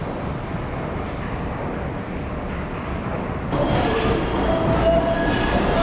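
PATH rapid-transit train running into the station: a steady low rumble, then about three and a half seconds in it suddenly gets louder and the wheels squeal with several steady high tones.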